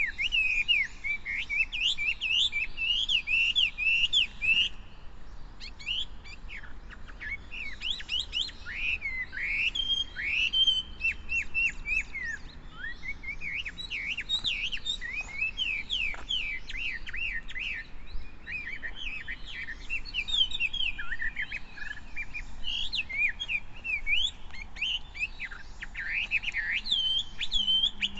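Birds chirping: a continuous chorus of many quick, high peeping notes, some sweeping down in pitch.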